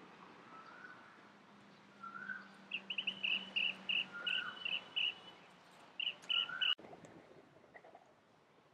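Birds calling over faint outdoor ambience: short rising whistles about once a second, and a fast run of short, high, repeated notes that is the loudest part. The calls cut off suddenly near the end.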